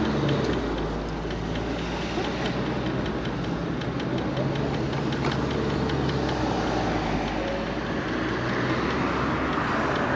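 Steady rolling and wind noise from riding a MiniPro Mi716 electric scooter along a street, with road traffic around.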